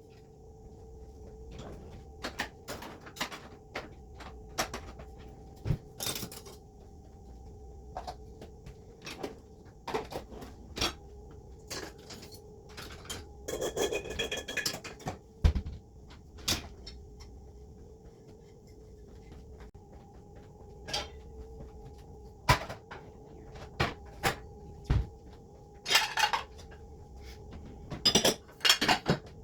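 Kitchen clatter from dishes, pots and cupboard doors: irregular sharp knocks and clinks, with a brief ringing clink about halfway through, over a steady hum.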